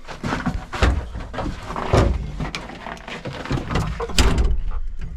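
A series of irregular thumps and knocks with some scraping, the heaviest thud about four seconds in.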